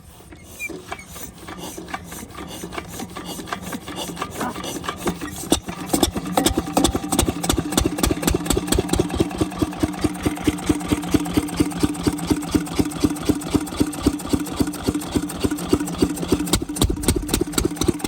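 A diesel water pump set engine starts up. Its beat quickens and grows louder over the first six seconds or so, then it runs with a steady, rapid, even beat.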